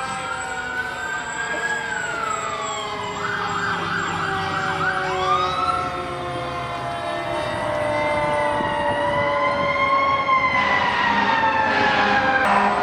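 Several emergency-vehicle sirens sounding at once, their slow wails rising and falling over one another, with one switching briefly to a rapid yelp about three seconds in. They grow louder as the vehicles approach.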